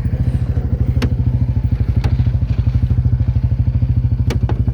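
Truck driving along, heard from the back of it: a loud steady low rumble with a fast, even throb, and a few sharp clicks or knocks, about one and two seconds in and twice near the end.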